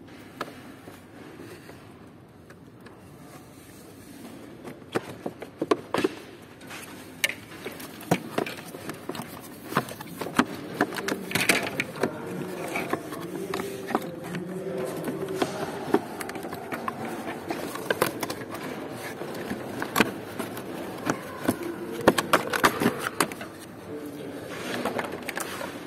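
Irregular clicks, clinks and knocks of hand tools and car parts being handled while a car's cowl area is dismantled. The knocks are sparse at first and come thick and fast from about five seconds in.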